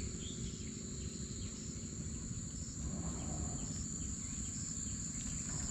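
Steady high-pitched insect drone, like crickets or cicadas, over faint low rumble.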